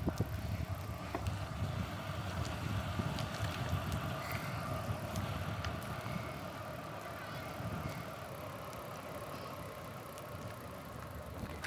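Bicycle being ridden: a steady rolling rumble with a hum above it and a few faint clicks.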